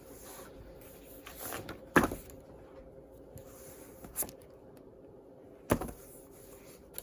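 Three sharp knocks, about two seconds apart and the first the loudest, with a short rustle just before the first, over a faint steady hum.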